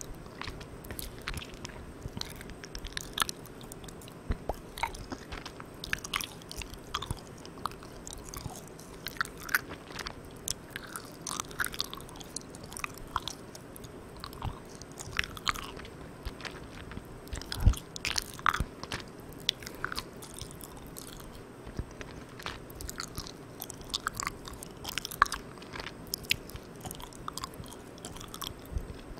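Close-miked chewing of Malang Cow soft chewy marshmallow candy: sticky, wet mouth clicks and smacks coming irregularly, over a steady hiss from the recorder's gain turned all the way up.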